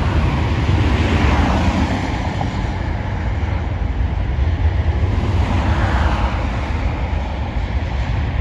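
Steady, loud rumble of jet airliner noise mixed with heavy wind on the microphone, swelling and easing slightly a few times.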